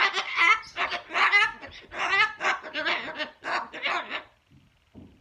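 Pet parrot making a rapid run of about eight loud, short calls, then falling quiet about four seconds in.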